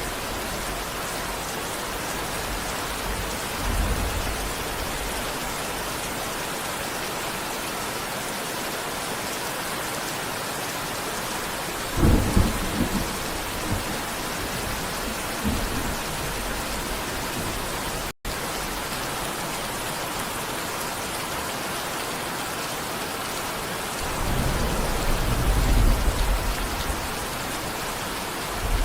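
Steady heavy rain falling in an even hiss, with thunder rumbling under it: a sharp, strong clap a little before the middle, a few smaller rumbles, and a longer rolling rumble near the end. The sound cuts out for an instant about two-thirds of the way through.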